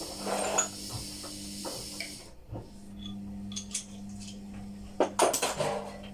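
Metal parts and tools clinking and scraping as they are handled, with a loud cluster of clatter just after five seconds in. A steady hiss stops about two seconds in, over a constant low hum.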